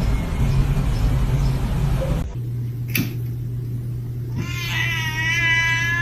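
A steady rushing noise for about two seconds, a single sharp click, then a kitten's one long, high-pitched meow near the end.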